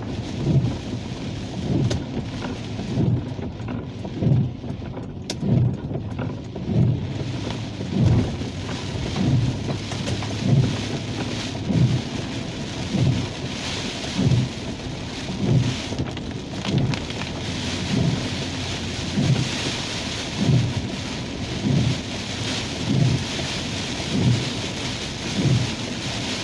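Rain on a moving car, with the windshield wipers thumping about once every 1.2 seconds. The rain hiss grows heavier about halfway through.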